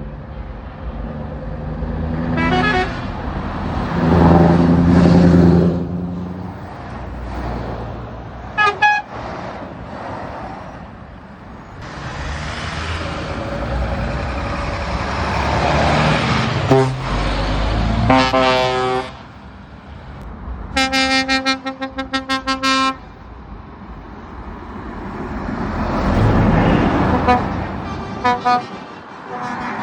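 Lorries pulling away and driving past one after another, their engines and exhausts swelling loud and fading. Horns sound over them: a short toot or two, and about two-thirds of the way through a rapid string of about eight blasts on a pitched horn.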